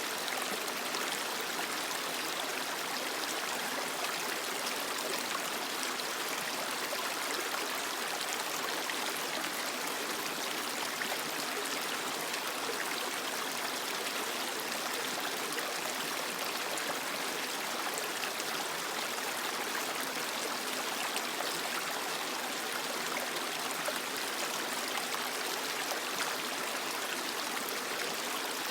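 A small creek running over rocks: a steady, even rush of flowing water.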